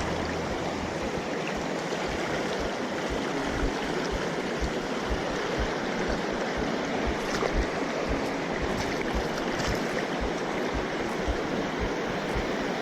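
Mountain stream water rushing steadily over rocks, with frequent soft low thuds mixed in.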